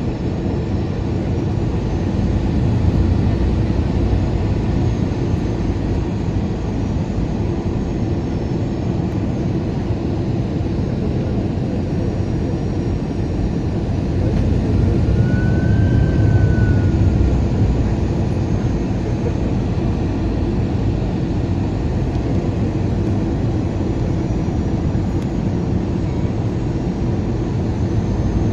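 Airbus A320 cabin noise on final approach: a steady engine and airflow roar. About halfway through, the engines spool up briefly and the roar swells for a few seconds before settling, as thrust is added to correct for light crosswinds.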